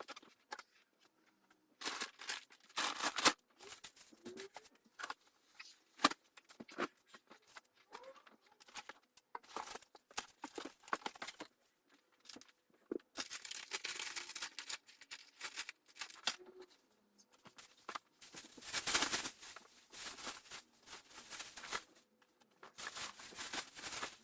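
Irregular rustling and crinkling, broken by short knocks and clicks, as belongings are handled and sorted.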